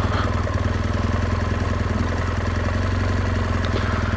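BMW R1200 GS flat-twin (boxer) engine running steadily at an even speed.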